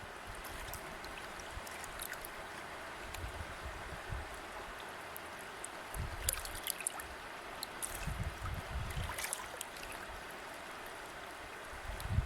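River water flowing steadily in a continuous rushing wash, with small splashing ticks over it. A low rumble rises now and then, about six seconds in, again around eight to nine seconds, and near the end.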